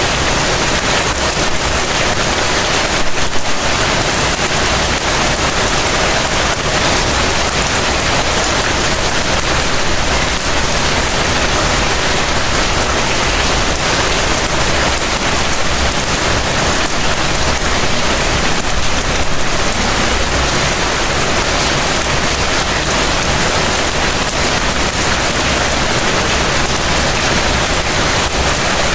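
Heavy rain falling steadily, an even, dense hiss with no letup.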